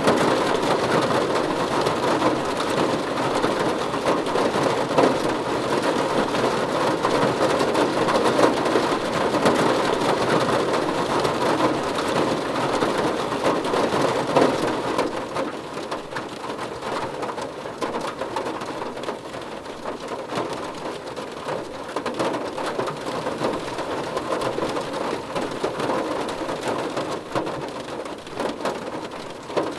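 Steady rain falling, an even wash of noise with many individual drops ticking through it. It is heavier for the first half and eases somewhat about halfway through.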